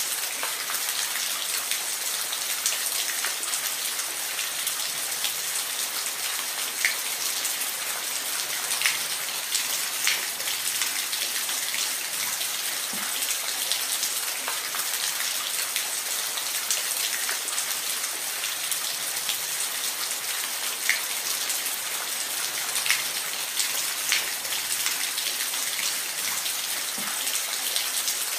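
Steady rain, an even hiss with scattered sharper drop ticks now and then.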